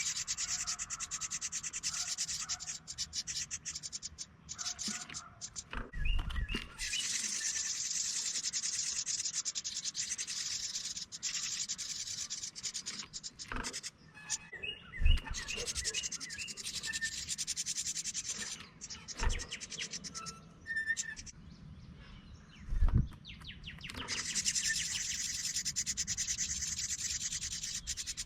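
Wren nestlings begging in long bouts of fast, raspy, buzzing calls as they are fed, with a few short chirps from the adult wren in between. A few low thumps stand out through the middle.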